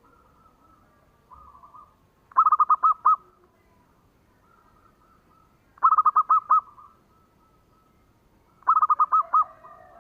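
Zebra dove (perkutut) cooing: three bouts of about five quick, clipped coo notes, roughly three seconds apart. Fainter cooing from other doves runs in the gaps.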